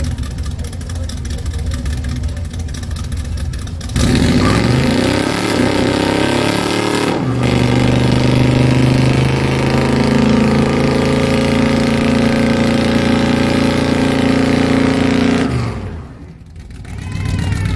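Car engine revved hard during a burnout. It runs at lower revs at first, jumps up sharply about four seconds in and climbs, then is held at high revs for about eight seconds. It drops off suddenly near the end and then runs again at lower revs.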